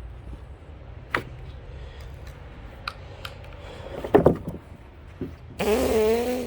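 Milled elm slabs and wood being handled: a sharp click, then a few heavy wooden knocks. Near the end comes a loud burst of about a second with a whine that drops and then holds steady.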